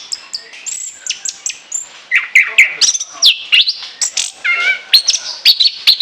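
Orange-headed thrush singing a continuous, varied song of quick whistled phrases and sweeping notes, some gliding down, with hardly a pause.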